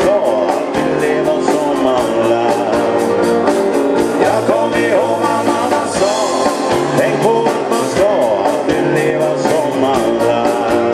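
Live dansband playing an upbeat rock-and-roll-style number, loud and full, over a quick, steady drum beat.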